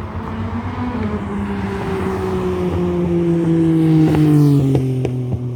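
A car driving past close by, its engine note sliding down in pitch as it passes, loudest about four seconds in.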